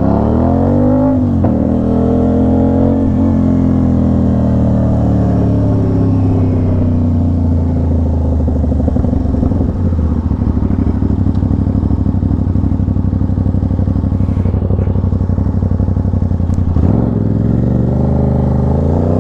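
Aprilia RS660's parallel-twin engine through an SC-Project S1 full titanium exhaust, pulling hard through the gears. The revs climb and break at upshifts about one and three seconds in, hold steady at cruising speed, then dip at another shift near the end before climbing again.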